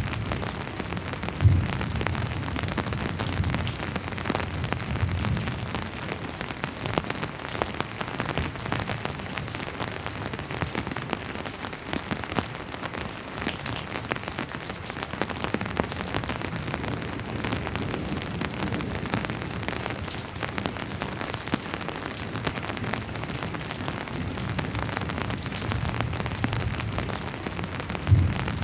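Steady rain falling and pattering on a surface, with patches of low rumble and a sharp low thump about a second and a half in and again near the end.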